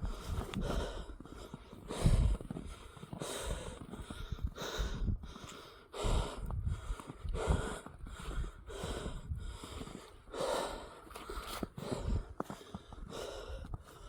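A man's heavy breathing, one loud breath in or out about every second, while he walks through deep snow.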